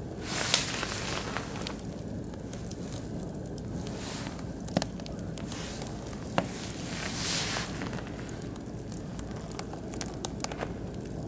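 Oak and beech wood fire burning in a barbecue grill, crackling steadily with scattered small snaps and three louder pops, about half a second, five seconds and six and a half seconds in.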